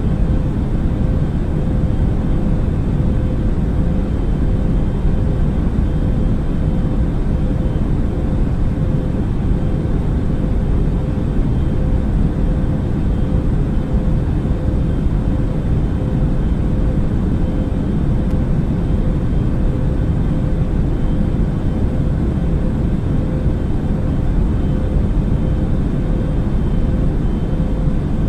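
Airbus A380 jet airliner noise: a steady low rumble with a faint, constant hum that holds level throughout.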